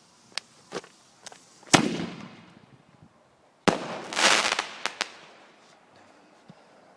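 Fireworks going off: a few sharp bangs, a loud bang with a fading rumble about two seconds in, then another bang followed by a dense burst of crackling and a couple of last pops.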